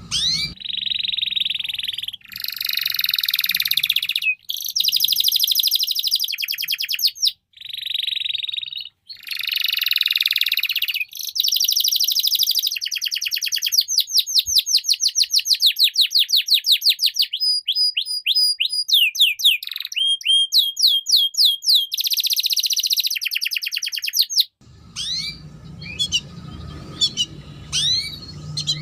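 Canary singing long phrases of rolling trills and rapid repeated notes, broken by short pauses. Near the end the song thins to scattered chirps over a low hum.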